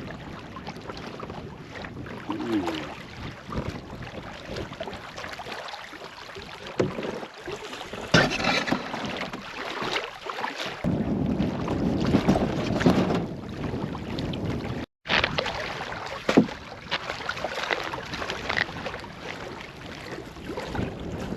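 Canoe paddle strokes dipping and splashing in lake water, with wind buffeting the microphone.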